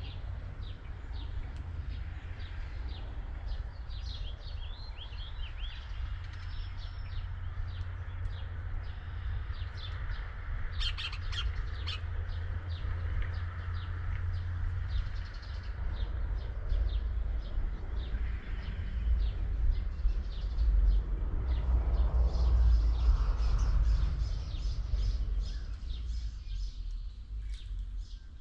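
Small birds chirping repeatedly in quick short notes, over a steady low rumble that grows louder in the second half.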